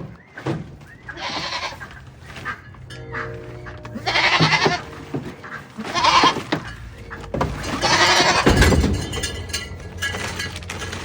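Goats bleating, a hoarse cry every two seconds or so, over background music.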